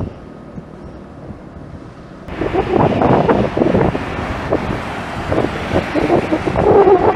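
Jet airliner noise mixed with wind buffeting the microphone. The sound jumps suddenly louder about two seconds in and then comes in irregular gusts.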